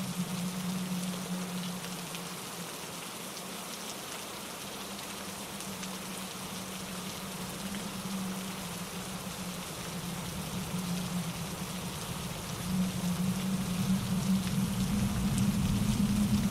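Steady rain falling through trees, mixed with wind and a mountain stream tumbling over granite rocks. A low rumble swells in near the end.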